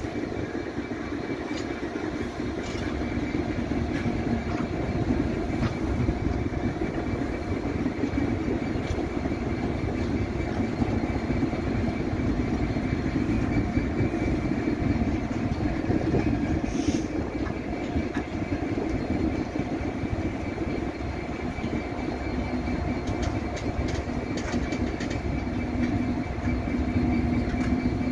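Freight train passing at a crawl: a steady rumble of its loaded open wagons rolling on the rails, with a few light clicks.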